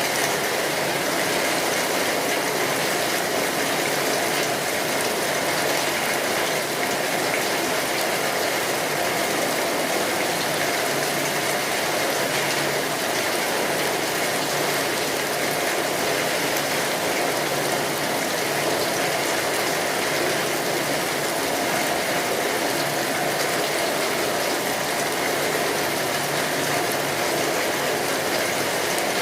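Steady rain drumming on a tin roof, an even, unbroken hiss of many drops.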